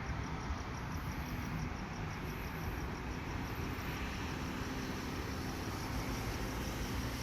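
Steady low rumble of outdoor background noise, with a faint, even high ticking.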